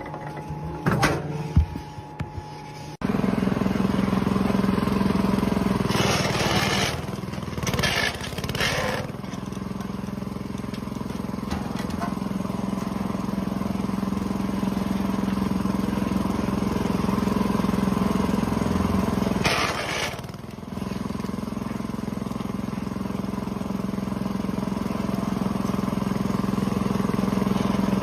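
A few clicks and knocks, then an engine running steadily from about three seconds in, with short bursts of noise around six to nine seconds and again near twenty seconds.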